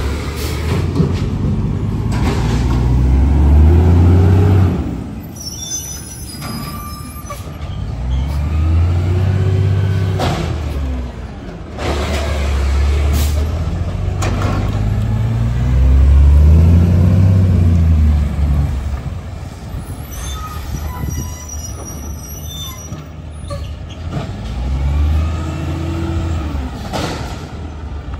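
Diesel garbage truck engine revving up and dropping back several times, with high brake squeals twice between the revs.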